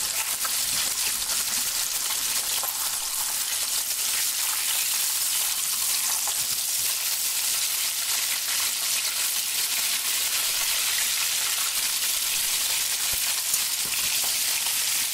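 Breaded pork cutlet shallow-frying in hot oil in a skillet: a steady sizzle with fine crackling, the sound of the water leaving the cutlet.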